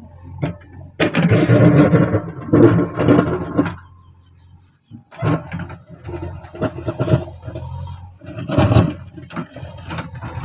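JCB backhoe loader's diesel engine running with a steady low hum. Loud, rough, noisy bursts come about a second in and again near the end as the bucket works soil on the rock.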